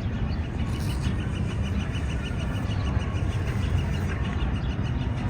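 A bird calling a fast run of short, high, repeated notes, about six a second, from about half a second in until about four seconds in, over a steady low rumble.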